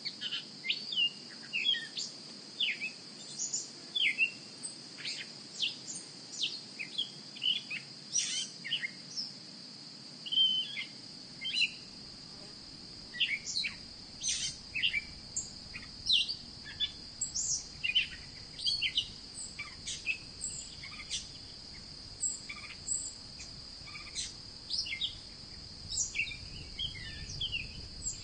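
Birds chirping in many short, separate calls over a steady high-pitched hum.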